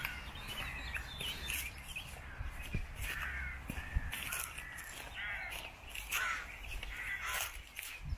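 Birds calling repeatedly outdoors: many short, harsh calls coming one after another, over a low steady rumble.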